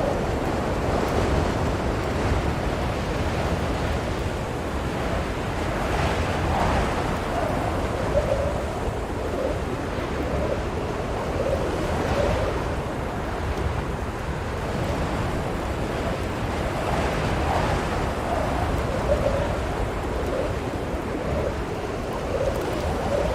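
Blizzard wind blowing steadily, a dense rushing noise with a faint wavering howl coming and going.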